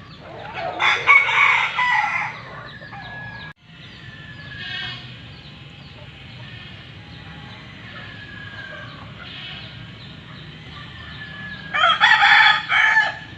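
Roosters crowing: a loud crow about a second in and another near the end, with fainter calls between them.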